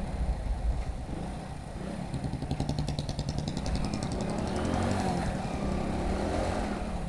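Hero Passion Pro's small single-cylinder engine running while riding along a road, its pitch dipping and rising again in the second half, with wind rushing over the helmet-mounted microphone.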